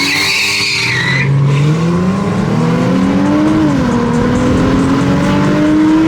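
Tyres squealing for about the first second, then a car engine accelerating hard: its pitch climbs steadily, drops once a little past halfway, then climbs again.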